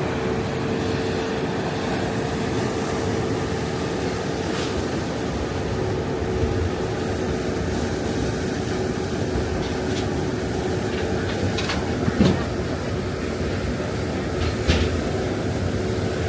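Thames Clipper passenger boat under way, heard on board: its engines make a steady drone with a constant hum. A few short knocks come in the second half.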